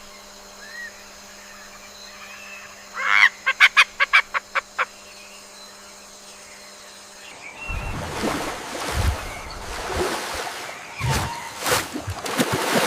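A bird gives a quick run of about eight loud, harsh honking calls, with faint chirps before it. About two-thirds of the way in, an uneven, rushing noise with low thumps takes over.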